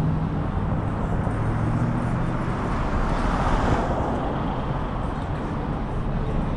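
Steady street traffic noise, recorded on the move on a bike ride, swelling briefly about three to four seconds in.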